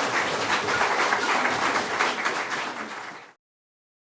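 Audience applauding with dense clapping that eases slightly, then cuts off abruptly about three seconds in.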